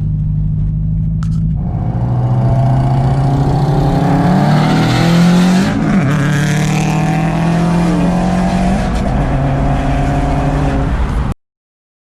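Car engines running, with a rise in loudness about a second and a half in and one engine revving up and back down around the middle. The sound cuts off abruptly near the end.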